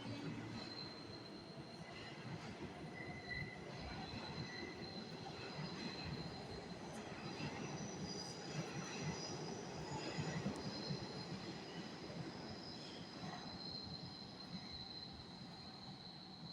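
New York City subway train running through the station, its wheels squealing in several high steady tones over a rumble that is loudest around the middle.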